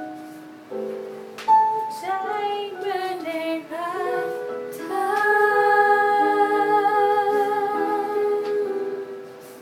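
A woman singing a slow Thai song over instrumental accompaniment. The line begins with short, bending phrases and ends in one long held note.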